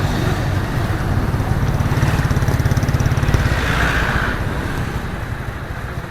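Suzuki GN125's single-cylinder four-stroke engine running at low revs, its raw exhaust putting in an even pulse, growing quieter near the end as the bike eases off.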